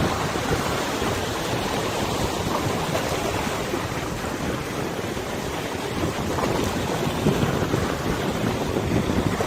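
Wind gusting against the microphone over a wide river, with water washing and lapping beneath it. The sound is a steady rush that swells a little near the end.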